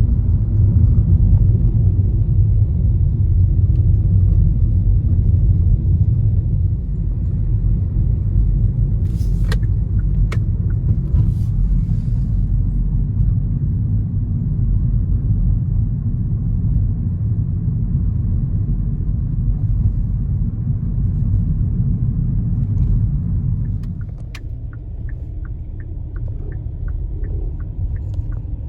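Steady low rumble, like a vehicle in motion heard from inside, which eases off about 24 seconds in. A run of quick, evenly spaced light ticks follows near the end.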